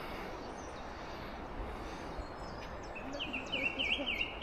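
Steady outdoor background noise. About three seconds in, a songbird starts singing a quick series of repeated high notes.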